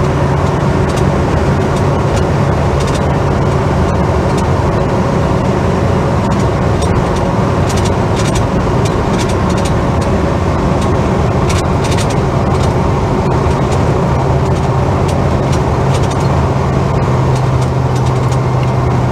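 Holden HK car cruising on a country road, heard from inside the cabin: a steady drone of engine and road noise that drops a little in pitch about two-thirds of the way through.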